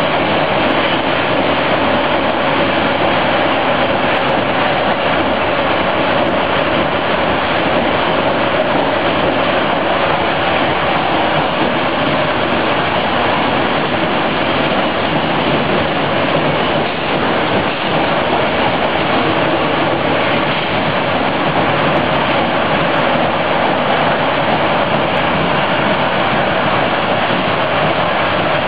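Fiat Materfer subway car running steadily through the tunnel: continuous running noise of wheels on rail and motors, with a steady hum throughout.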